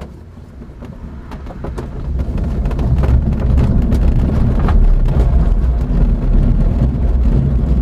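Loud, low rumble of wind noise inside a glider's cockpit, building over the first few seconds and then steady, with scattered light rattles.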